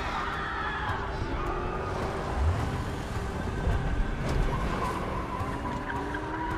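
A car driving, with engine and road noise and two heavier thumps about two and a half and four seconds in. Faint held tones sound behind it.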